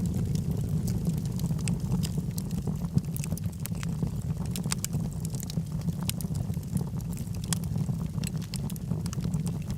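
Wood fire burning in a fireplace: frequent irregular sharp crackles and pops from the burning logs over a steady low rumble of the flames.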